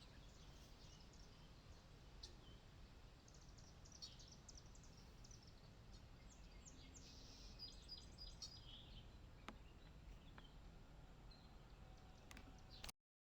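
Faint bird chirps and short calls, scattered and densest in the middle, over a steady low rumble of outdoor background noise. The sound cuts off suddenly near the end.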